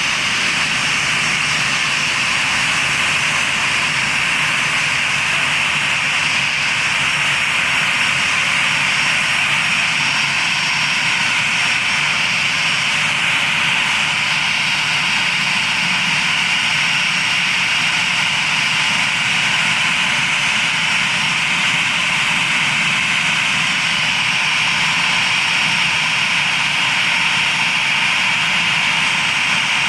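Airbus airliner's jet engine running steadily during a ground run after a new engine installation. It makes a loud, even rushing whine with no change in power.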